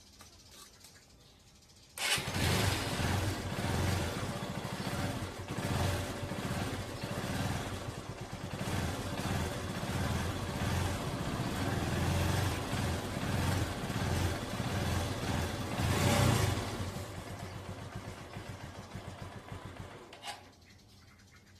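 Honda TMX Supremo 150's single-cylinder four-stroke engine starting about two seconds in and running with the throttle opened and closed in surges. It revs highest about three-quarters of the way through, drops back to a lower, unsteady running and shuts off near the end.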